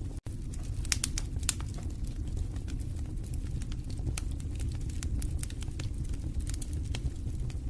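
Wood fire in a fireplace crackling: a steady low rumble of flames with frequent sharp pops, a cluster of louder pops about a second in. The sound cuts out for an instant just after the start.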